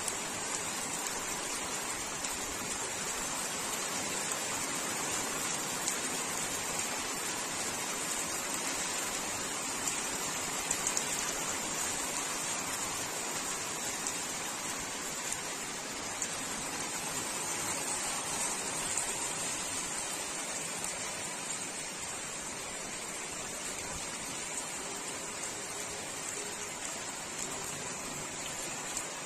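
Heavy rain falling steadily, a continuous hiss of drops with small patters of individual drops.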